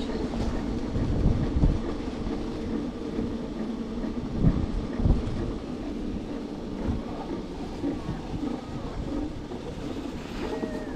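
Electric skateboard rolling, a steady rumble from the wheels with wind buffeting the microphone. There are a few sharper knocks from bumps, the loudest about four and a half and five seconds in.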